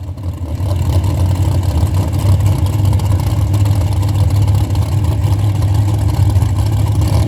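Drag car's engine idling nearby with a loud, steady low rumble, holding one pitch without revving.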